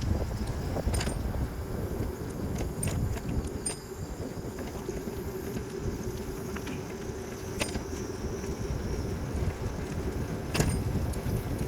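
Wind rumbling on the microphone with road noise while riding a Trek Townie e-bike, broken by scattered sharp clicks and rattles, the loudest about ten seconds in. A faint steady hum runs through the middle.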